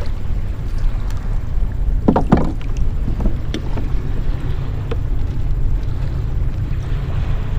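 Wind buffeting the microphone on a kayak, a steady low rumble, with a few light knocks and a short louder sound about two seconds in.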